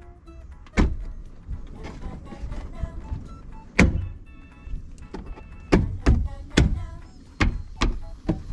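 Sharp knocks and clicks, one about a second in, one near the middle and a quick run of four or five near the end, over light background music.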